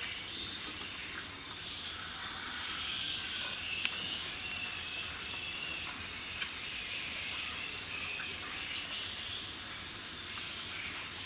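Outdoor rural ambience: a steady high-pitched insect chorus with a wavering trill, and a few faint clicks.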